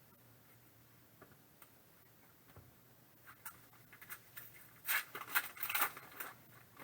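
Trading cards and pack being handled: scattered faint clicks, then about a second and a half of crinkly rustling near the end.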